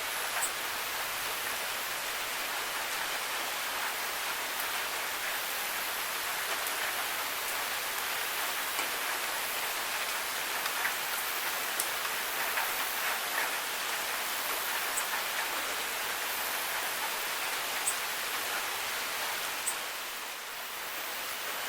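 Steady rain falling, an even hiss with a few sharp drip ticks scattered through it.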